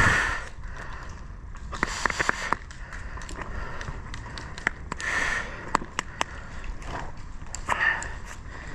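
Scattered sharp clicks and snaps from airsoft guns firing on the field, with a loud knock at the start and a few short bursts of rustling, over a low rumble of wind and handling on a worn action camera.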